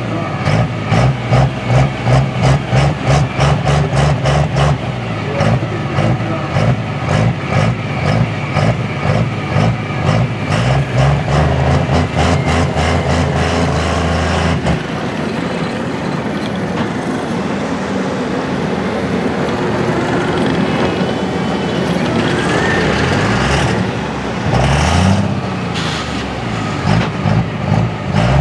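Super stock diesel 4x4 pulling truck engine running with a pulsing, uneven idle. The engine is briefly revved up and back down near the end.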